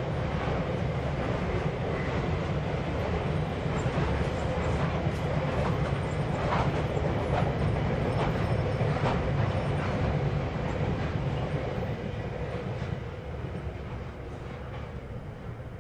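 Freight train of covered hopper wagons rolling past: a steady rumble of steel wheels on rail with scattered clunks. It fades over the last few seconds as the end of the train goes by.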